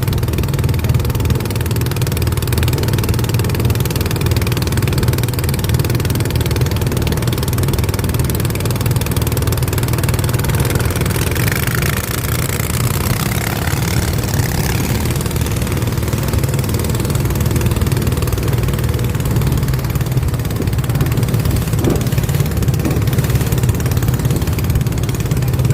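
Boat engine running steadily at an even speed, a constant low drone.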